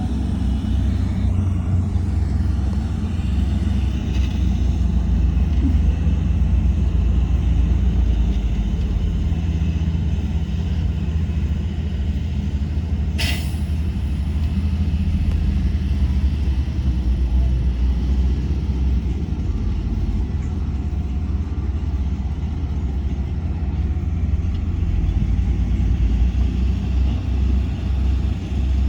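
Heavy diesel earthmoving machinery running steadily with a deep rumble. A brief sharp hiss cuts in about halfway through.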